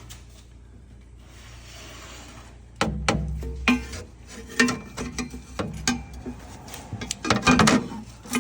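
Irregular metallic clanks and knocks as an aftermarket exhaust downpipe is worked up against the underside of the car, starting about three seconds in and loudest near the end.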